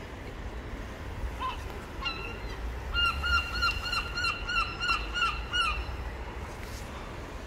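A bird calling: one short note, then a quick run of about nine repeated notes, roughly three a second, that stops just before six seconds in.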